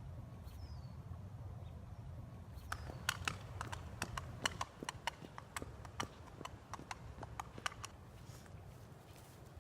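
Clip-clop of horse hooves: a run of quick, irregular clacks that starts about three seconds in and stops about two seconds before the end, over a steady low hum.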